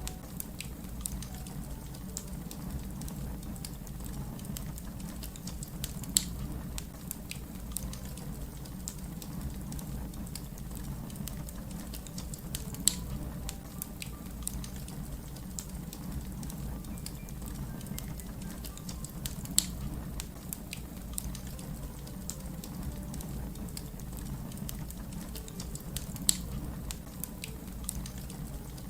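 Fire crackling: a steady low rumble under a run of small, scattered crackles, with four louder sharp pops spaced evenly about six or seven seconds apart.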